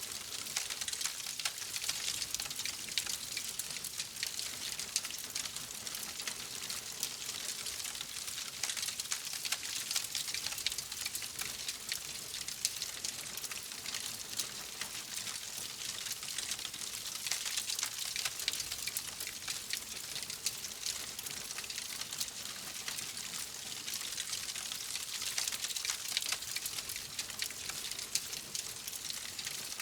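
Fireplace fire crackling: a steady hiss full of small, quick pops and snaps.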